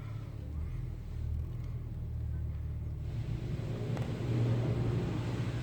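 Low, steady rumble of a car idling, heard from inside the cabin in an automatic car wash. About three seconds in, a broader hiss of the wash machinery or water spray joins and grows louder.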